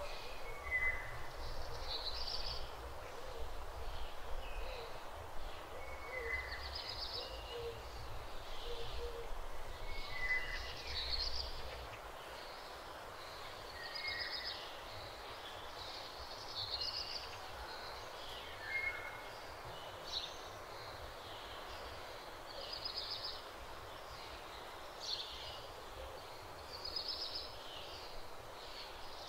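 Small birds calling over and over in short high-pitched phrases, one every second or two, over a low rumble that stops about twelve seconds in.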